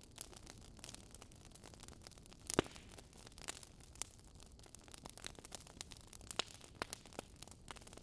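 Campfire of burning logs crackling, with scattered irregular pops over a soft hiss and one louder pop about two and a half seconds in.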